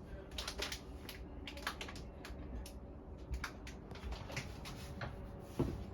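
Irregular light clicks and taps over a low steady hum, with one louder knock near the end.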